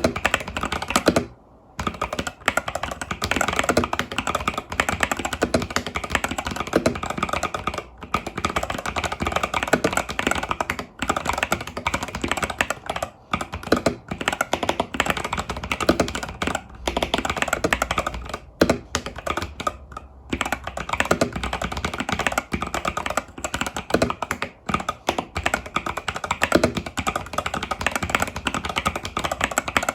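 Continuous typing on an Epomaker TH80 Pro mechanical keyboard with Epomaker Budgerigar tactile switches and stock keycaps, the keystrokes clicking densely with a few brief pauses.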